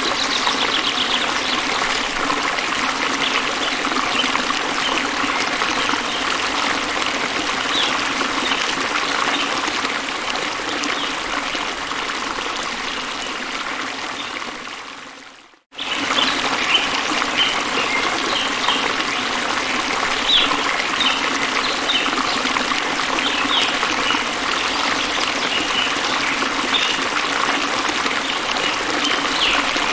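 Stream water trickling and running steadily. It fades out about halfway and cuts back in a moment later. Short high chirps sound over the water in the second half.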